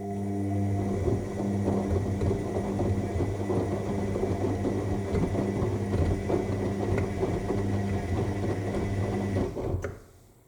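AEG L7FE7461BI washing machine's motor turning the drum during the main wash: a steady motor hum with laundry and water tumbling inside. It runs for just under ten seconds, then stops as the drum pauses.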